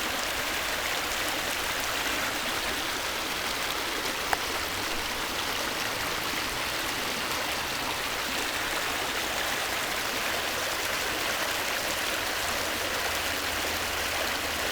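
A stream flowing and rushing steadily over rocks, with one small click about four seconds in.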